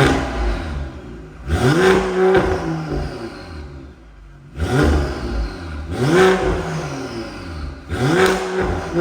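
Mercedes-AMG GLE53's 3.0-litre turbocharged six-cylinder revved five times through a complete aftermarket exhaust system. Each time the note climbs quickly, then falls back to idle.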